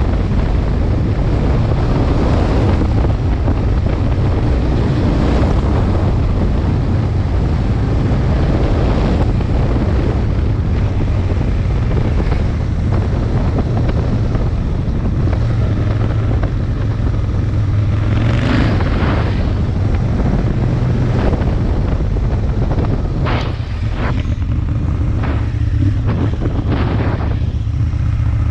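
Aprilia Tuono Mille's V-twin engine running on the move, mostly buried under heavy wind buffeting on the microphone. Near the end the wind drops and the engine's steady note comes through.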